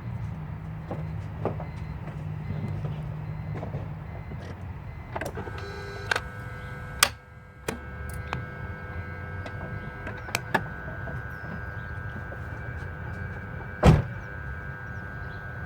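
A 2002 BMW 325xi turned with the key: one sharp tick from the engine bay near the end and no cranking, the engine making no attempt to start. Smaller clicks come before it, and a faint steady whine starts about five seconds in.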